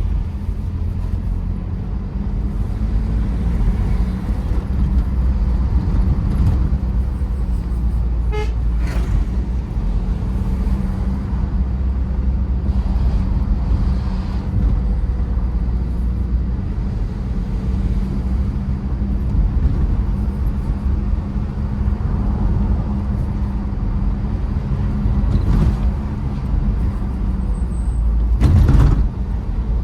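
Tata Safari Storme SUV driving: steady engine and road rumble with a constant low engine tone. A brief louder burst comes near the end.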